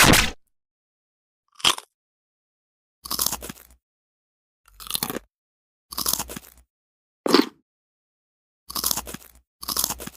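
A string of about eight short sound-effect clips, each under a second, played one after another with dead silence between them.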